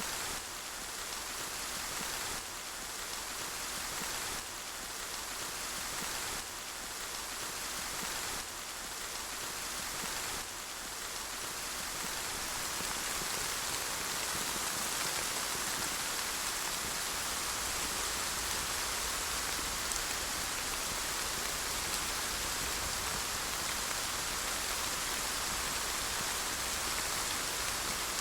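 Steady rain falling, a dense even hiss, with small regular jumps in level every two seconds or so for the first ten seconds before it evens out.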